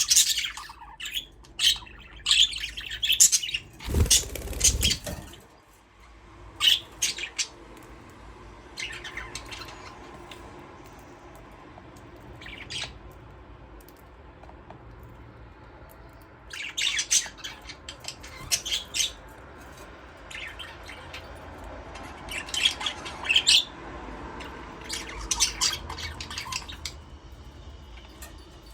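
A flock of budgerigars chirping and squawking in bursts of short high calls, with quieter stretches between the bursts. About four seconds in there is a brief low rumble.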